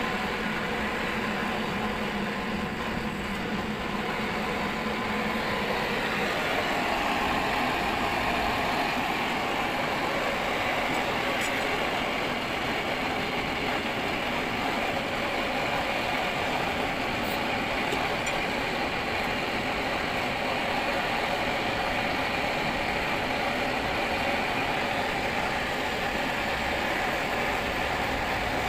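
A steady engine or motor running, whose tone changes about six seconds in.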